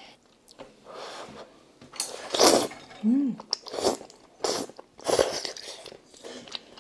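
Close-miked eating of budae bokkeum, stir-fried ham, sausage and udon noodles: a run of loud bites and chewing sounds in short bursts, with a brief hum of approval about three seconds in.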